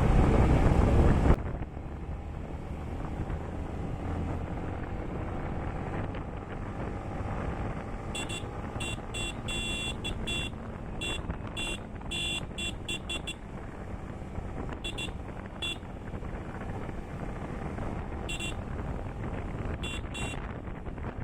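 Wind buffeting the microphone on a moving Yamaha MT-15 motorcycle, cutting off abruptly about a second in. Quieter engine and road noise follow, with clusters of short high-pitched beeps in the middle and again near the end.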